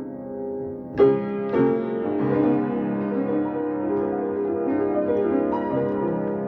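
Solo piano playing slowly, improvised. A held chord fades, then a loud chord is struck about a second in, a second one follows shortly after, and a flowing line of notes rings on over the sustained harmony.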